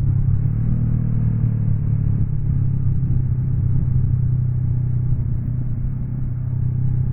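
Honda NX 500's parallel-twin engine running steadily under way, a low even drone with a slight dip in pitch over the first couple of seconds.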